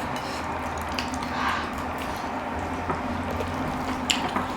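Wet chewing and eating sounds from people eating ramen, with a few faint clicks of utensils.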